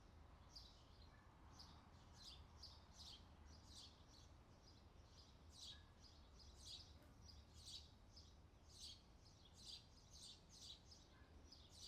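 Faint outdoor summer ambience: small birds chirping in short, quick, high notes, about two a second, over a low steady background hum.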